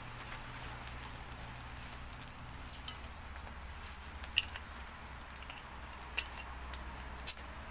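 Small wood fire crackling in a mini secondary-combustion stove, with a few sharp pops standing out, over a steady patter of rain.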